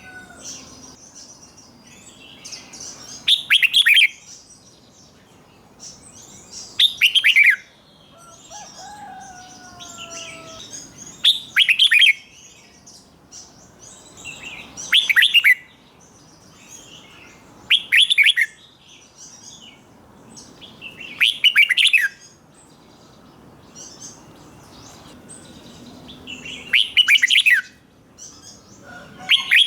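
Red-whiskered bulbul singing: short, loud, sharp song phrases repeated about every three and a half to four seconds, with softer chirps between them.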